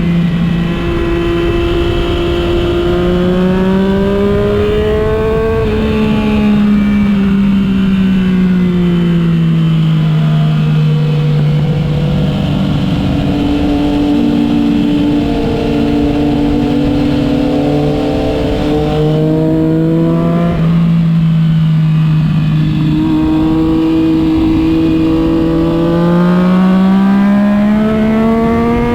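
Motorcycle engine running under way, its pitch rising and falling slowly as the rider speeds up and eases off, with a steady rumble of wind and road noise under it. The engine note climbs over the first few seconds, drops and holds lower through the middle, and climbs again near the end.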